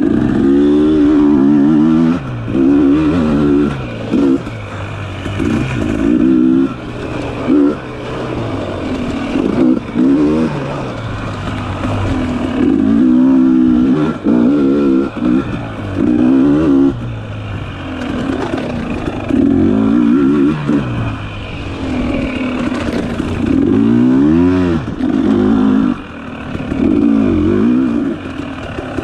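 Dirt bike engine revving up and down over and over as the throttle is opened and closed, the pitch climbing and dropping every second or two.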